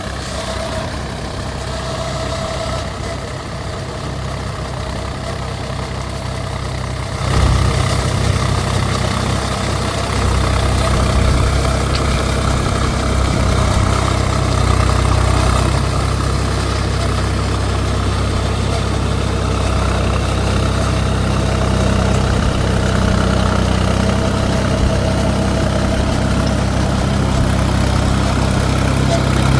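Mahindra 275 DI TU tractor's three-cylinder diesel engine running steadily, getting louder and heavier about seven seconds in and holding there.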